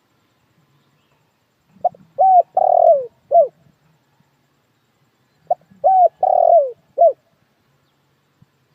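Spotted dove (dekukur) cooing: two song phrases about four seconds apart. Each phrase is a short opening note, a coo, a longer coo that falls in pitch at its end, and a short closing coo.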